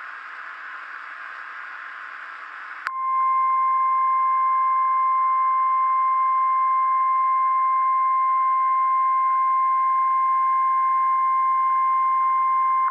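Radio static hiss. About three seconds in, a click and then a single steady alarm tone that holds for about ten seconds and stops abruptly: the NOAA Weather Radio warning alarm tone, which signals that a warning broadcast is about to follow.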